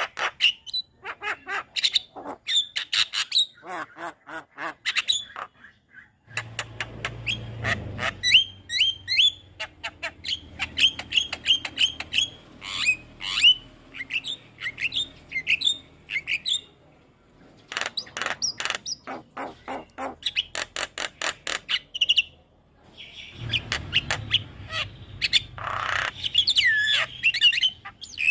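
Javan myna (jalak kebo) singing: rapid runs of clicks, chatter and short whistled notes, in bursts with a couple of brief pauses.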